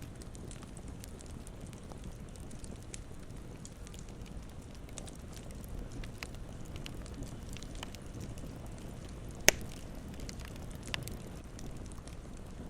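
Campfire crackling: scattered small snaps and ticks over a low steady rumble, with one loud sharp pop about three-quarters of the way through.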